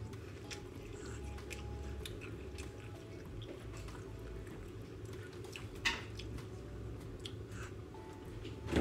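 Chewing and wet mouth sounds of a person eating, with scattered small clicks and one sharper click about six seconds in, over a steady low hum.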